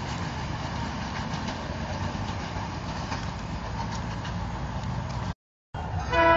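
Distant train approaching along the line: a steady low rumble. Near the end the sound drops out for a moment, then a locomotive horn chord starts sounding.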